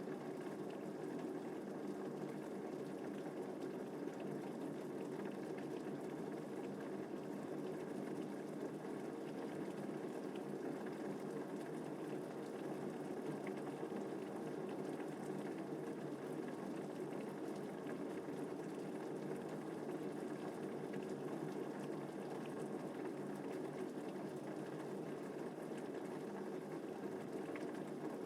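Steady rain falling, an even, unbroken wash of sound with no thunder.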